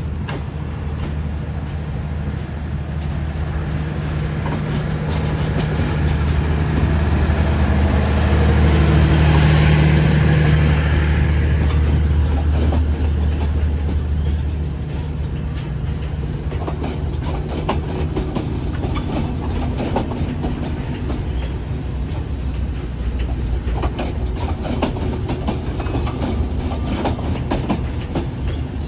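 Diesel train passing. The locomotive's engine drone swells to its loudest about ten seconds in and drops away. The carriages then roll by with repeated wheel clicks over the rail joints.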